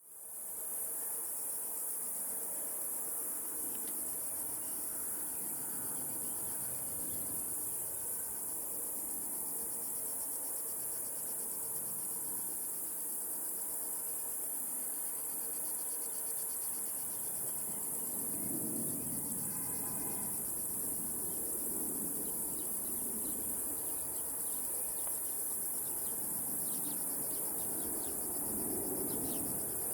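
Cicadas buzzing in a steady, shrill, continuous chorus. A faint low rumble swells a few times in the second half, and a bird chirps faintly near the end.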